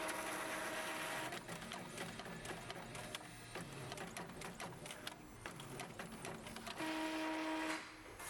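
Printer running: a steady motor whine for about the first second and again for about a second near the end, with clicks and mechanical rattling in between.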